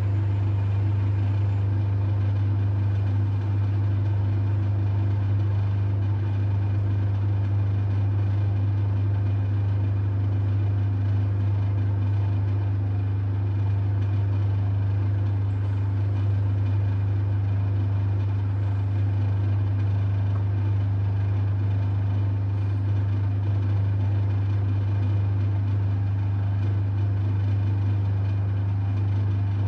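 LG F1222TD washing machine running with a steady low hum that does not change.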